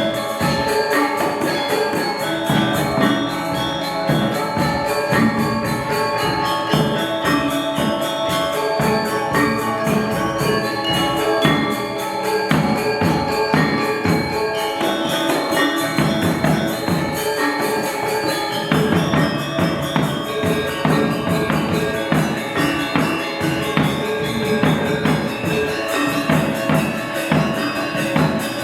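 Balinese gong gamelan playing: bronze metallophones, gongs and drums struck in fast, dense interlocking patterns that ring on over one another.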